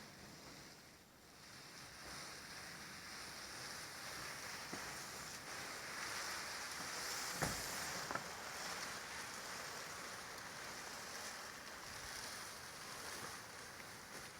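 Soft, steady wash of water and wind around a sailboat moving in light air, swelling in the middle, with a couple of faint knocks about halfway through.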